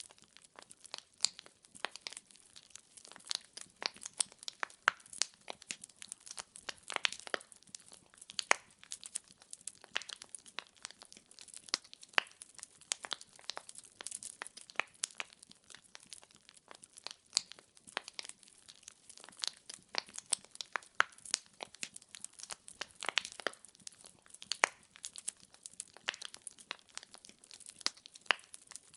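Burning firewood crackling steadily, with many sharp, irregular pops several times a second and a few louder snaps.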